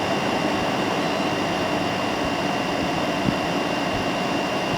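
2017 Frigidaire 8,000 BTU air conditioner running and cooling with its fan on the low setting: a steady rush of air with a faint, high, steady whine. There is one small tick about three seconds in.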